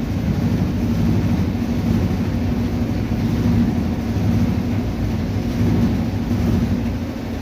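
Maytag HE washing machine running with a loud, steady rumbling drone and a fast rattle. This is the machine's recurring abnormal noise, not its normal running sound.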